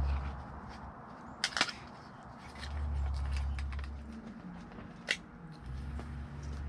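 Sharp clicks of plastic heater-box parts being handled and snapped apart, two close together about one and a half seconds in and one more about five seconds in, over a low hum that comes and goes.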